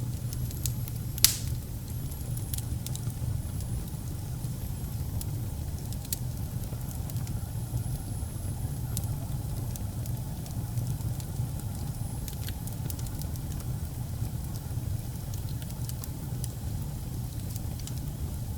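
Wood fire burning in a fireplace: a steady low rumble of flames with scattered crackles, and one sharp loud pop about a second in.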